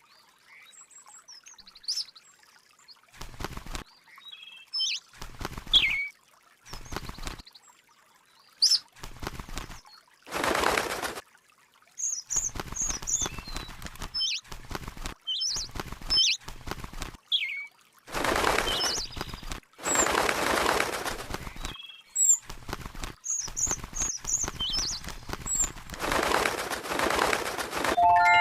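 A small bird chirping in short high calls, interrupted by several bursts of wing flapping lasting a second or more each.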